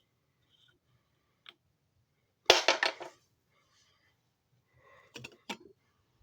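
Hard objects being handled: a single click, then a brief loud clatter of rattling clicks a little before halfway, and a few more clicks near the end.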